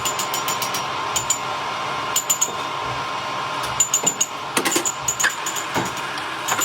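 Workshop machinery hum with a steady whine, under repeated sharp metal-on-metal clinks and taps, some in quick clusters, as steel parts are handled and worked.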